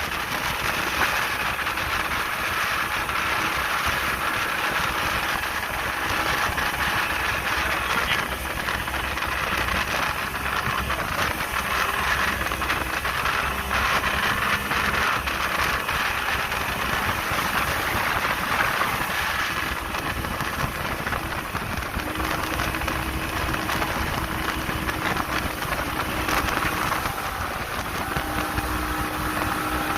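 Speedboat engine running steadily under way, its drone mixed with the rush of water and wind.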